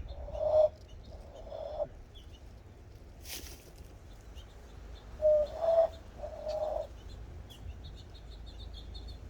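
Cupped-hand whistle blown as a dove-like coo: low, hollow, steady-pitched notes, two near the start and three more about five seconds in. Small birds chirp faintly throughout.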